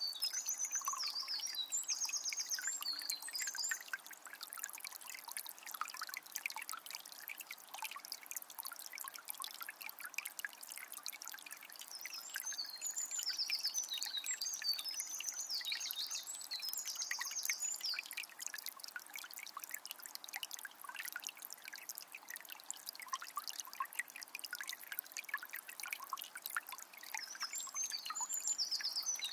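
Calm forest river flowing: a steady rush of water full of small trickles and splashes. A songbird sings short bright phrases near the start, again in the middle, and near the end.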